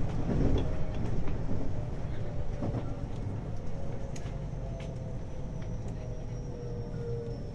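Hapi-Line Fukui 521 series electric train running and slowing down: the traction motors' whine falls slowly in pitch while the rumble of wheels on rail eases off, with a few light clicks.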